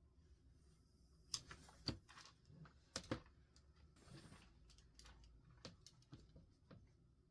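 Quiet stationery handling at a desk: scattered light taps and clicks, with a brief soft paper rustle in the middle.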